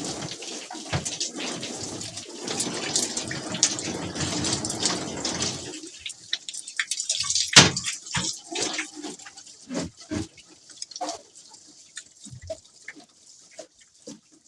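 Running water splashing, as from a hose rinsing out a refrigerator; it cuts off about six seconds in, followed by scattered drips, splashes and light knocks.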